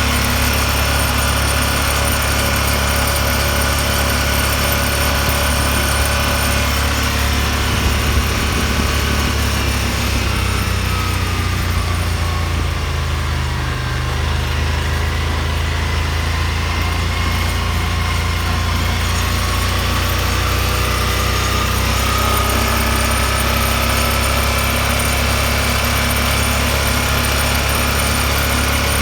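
Yamaha Wolverine R-Spec side-by-side's single-cylinder engine running steadily, with a high mechanical whine; its pitch sags gently in the middle and comes back up.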